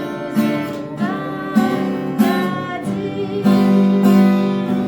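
Acoustic guitar strummed in a three-beat waltz pattern, down with the index fingernail and up with the thumb, under a voice singing long held notes.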